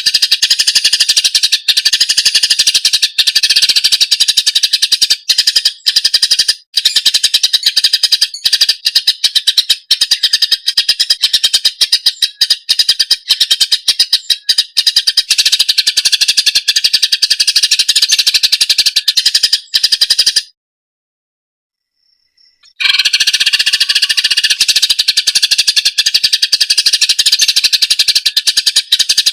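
Greater green leafbird (cucak ijo) singing a loud, fast, continuous stream of high chattering and chirping notes. It cuts off to silence for about two seconds past the two-thirds mark, then resumes.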